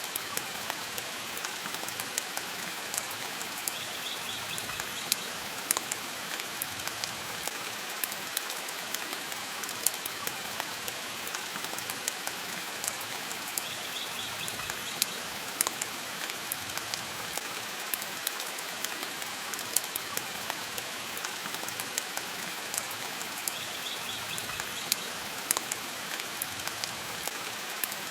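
Steady rainfall with the irregular pops and crackles of a wood fire burning in a fireplace, layered as a constant ambience.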